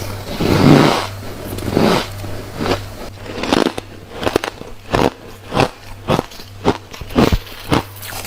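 Close-up biting and chewing of refrozen white freezer frost, crisp and squeaky crunches. Two larger bites in the first two seconds, then steady chewing crunches at about one and a half a second.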